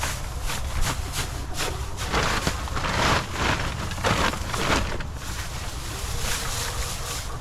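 Rustling and crackling of material being handled, densest between about two and five seconds in, over a steady low rumble of wind on the microphone.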